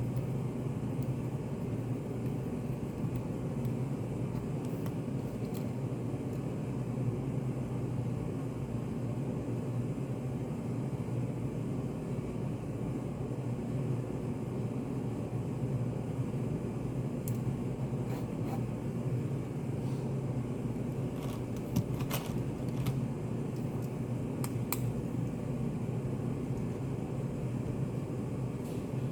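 Study cafe room ambience: a steady low hum, with a few faint light clicks past the middle.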